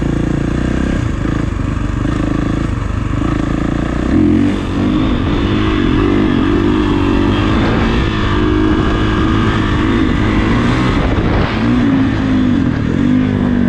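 Kawasaki KX450 dirt bike's single-cylinder four-stroke engine running. About four seconds in, the revs rise, and the engine is then held on the throttle with its pitch wavering up and down as the bike is ridden on the back wheel.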